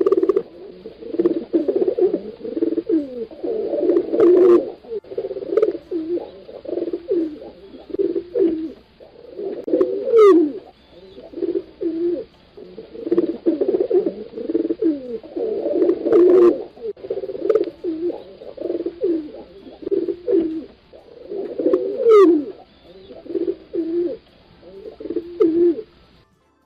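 Several pigeons cooing continuously, their low throaty coos overlapping with hardly a pause.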